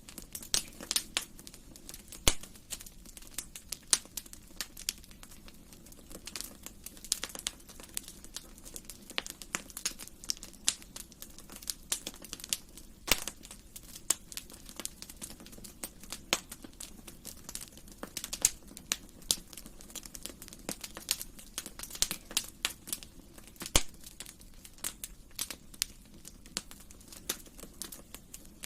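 Wood fire burning in a fireplace, crackling with irregular sharp pops and snaps, several a second, over a soft low hiss; a few louder pops stand out.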